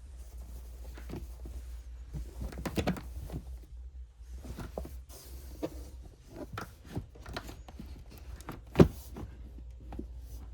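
Scattered clicks and knocks over a steady low rumble, with one sharp, loud knock about nine seconds in.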